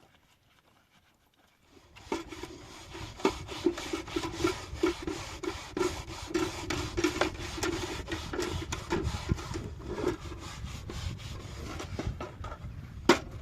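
Rapid, repeated rubbing or rasping strokes that start about two seconds in after a near-silent moment, with one sharp knock near the end.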